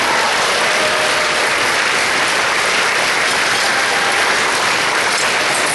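Audience applauding steadily, with clapping filling the hall.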